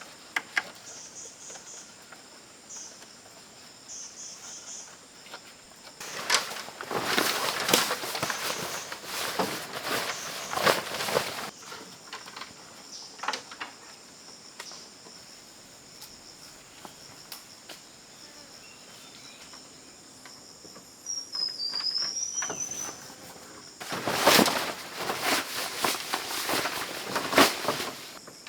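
Steady high-pitched chirring of forest insects, crickets among them. Two spells of rapid knocking, clattering and rustling break in over it, about six seconds in and again near the end, each lasting several seconds.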